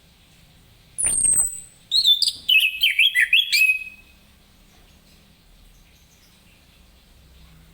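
Orange-headed thrush singing: a sharp, high downward-sliding note about a second in, then a quick, varied warbling phrase, then a pause.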